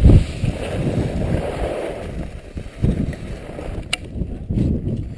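Skis sliding and scraping over snow in uneven rushing surges, loudest at the start and again around three and four and a half seconds, with a sharp click about four seconds in.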